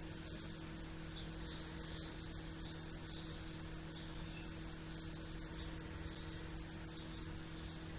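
Small birds chirping in short, repeated high calls over a steady low hum.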